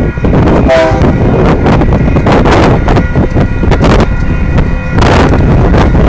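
Diesel locomotives at the head of a loaded coal train approaching, their engines rumbling low and steady under heavy wind buffeting on the microphone.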